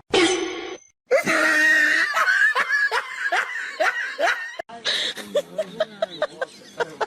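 People laughing in a rhythmic run of falling 'ha-ha' bursts, about three a second, after a short loud sound at the very start. Near the end a second stretch of lighter, quicker laughter follows.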